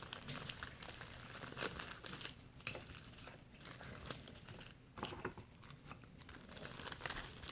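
Plastic packaging crinkling and rustling as it is handled, in irregular bursts with short pauses.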